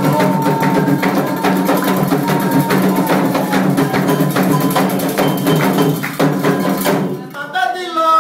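Candomblé ceremonial music: drums and a struck, wood-block-like percussion pattern playing a fast, steady rhythm. It stops about seven seconds in, and a lone voice starts singing.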